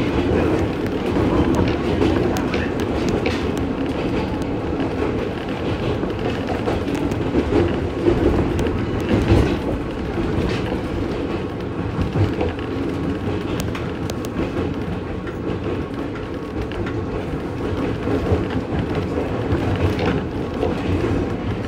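Ex-Tokyo Metro 03 series electric train running along the track, heard from inside the front car: a steady running rumble of wheels on rails with occasional short clicks over rail joints.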